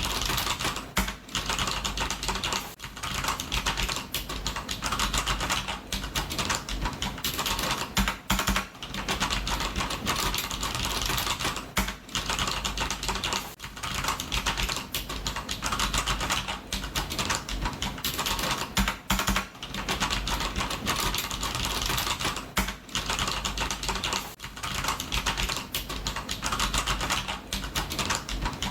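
Fast, continuous typing on a computer keyboard: a dense run of key clicks with brief pauses every few seconds.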